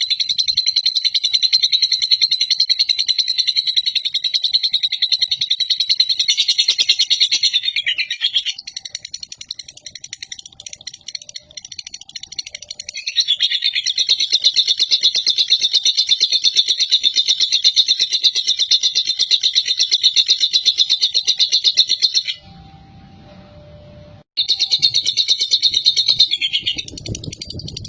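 Lovebird singing its long, rapid, high-pitched trilling chatter (the 'ngekek panjang' song prized in competition birds) in long unbroken runs. It softens for a few seconds after about eight seconds, swells again, then breaks off for about two seconds near the end before starting again.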